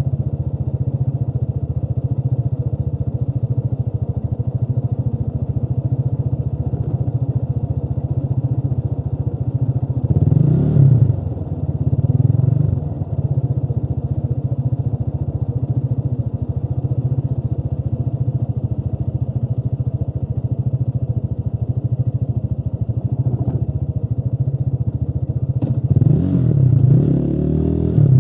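Motorcycle engine running steadily under way, its pitch rising and falling about a third of the way in and again near the end, as with throttle and gear changes. A couple of brief sharp clicks come late on.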